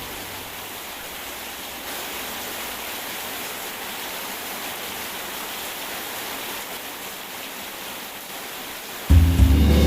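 Steady, even hiss of falling rain with no thunder. About nine seconds in, soft music with a deep bass comes back in over it and is the loudest part.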